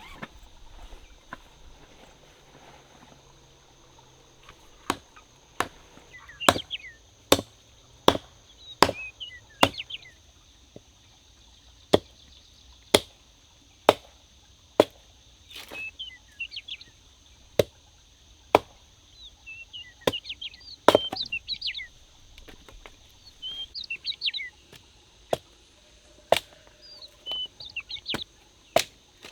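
A blade chopping into wood in sharp single strokes, roughly one a second, starting about five seconds in. Birds chirp between the strokes.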